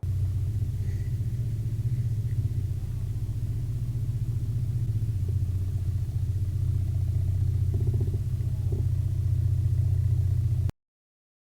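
Steady low rumble of a car's engine and road noise heard from inside the vehicle, cutting off suddenly near the end.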